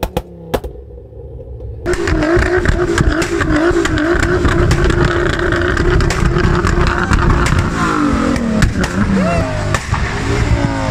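A car engine starts loud about two seconds in and is held at high revs with a steady, slightly wavering note for about five seconds; near the end the revs fall and rise again in quick blips.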